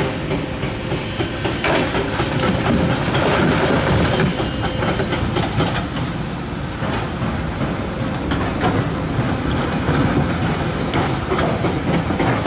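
Heavy crawler excavator's diesel engine running under load as it digs dirt, with a steady mechanical rumble and repeated metallic clanks and rattles that come thicker near the end.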